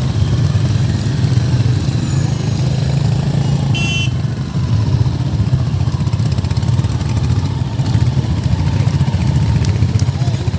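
Motorcycle engines running steadily together, with a brief high-pitched beep a little before four seconds in.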